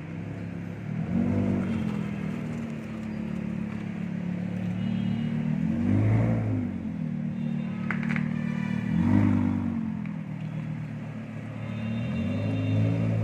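Lamborghini Huracán's V10 engine running at low speed, its revs rising and falling briefly four times as the car moves off slowly.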